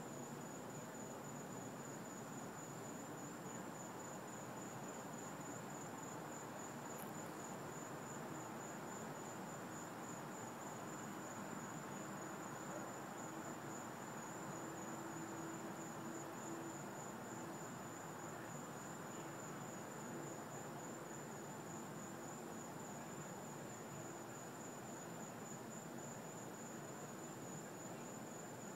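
Crickets trilling steadily, one continuous high-pitched chorus over a faint even hiss.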